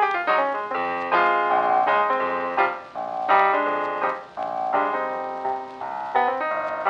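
Background piano music: struck chords and melody notes, each ringing and fading before the next.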